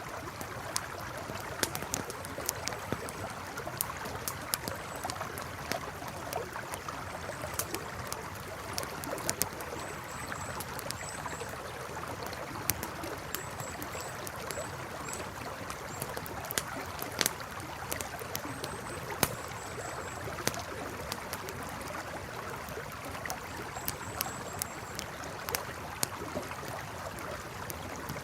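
Campfire crackling with frequent sharp pops over the steady rush of a flowing river. Faint high chirps come in short groups of two or three.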